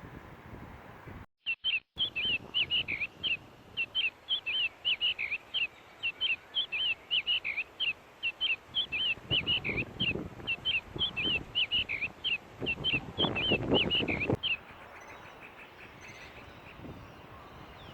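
A bird calling outdoors: a fast, steady series of short, high chirping notes, about three a second, starting about a second in and cutting off suddenly well before the end. Bursts of low rumble come in under the calls twice in the second half.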